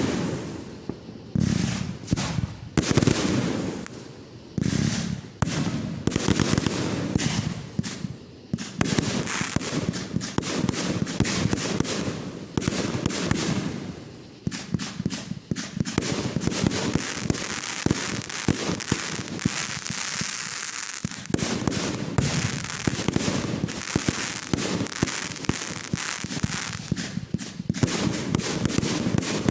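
Fireworks going off: a run of separate bangs, then long stretches of dense, rapid crackling, about a third of the way in and again later.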